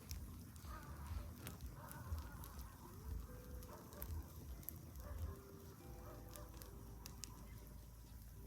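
Campfire crackling with scattered sharp pops, and wind buffeting the microphone in gusts. Faint held tones sound in the background.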